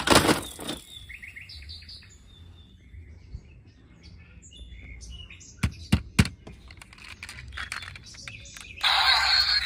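Birds chirping in short high notes, with three sharp clicks about six seconds in. A louder, denser sound starts near the end.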